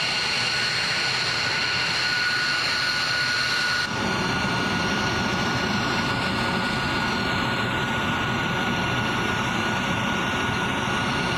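F-22 Raptor's jet engines running loud and steady, a constant rush with a high whine over it. About four seconds in the sound jumps abruptly to another stretch of the same steady jet noise.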